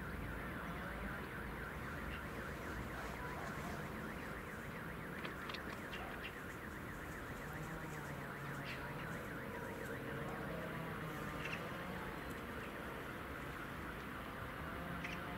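Train running, a steady rumble with wavering whining tones over it and a few short, sharp clicks.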